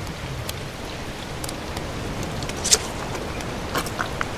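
Steady wash of water with a few brief, sharp splashes, the loudest a little past halfway.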